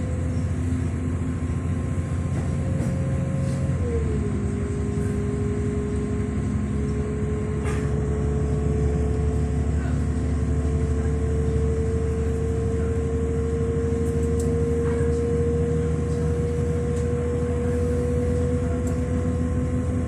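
Diesel multiple-unit passenger train running, heard from inside the carriage: a steady low rumble with a whining tone that drops about four seconds in, then slowly climbs again.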